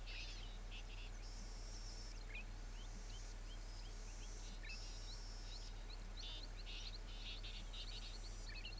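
Birds calling in grassland: many short rising chirps and repeated buzzy trills of about a second each, over a steady low hum.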